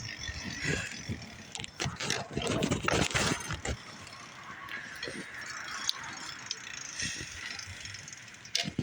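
Bicycle being ridden, rattling and clicking with irregular knocks for the first few seconds, then a steadier rushing noise with only the odd click.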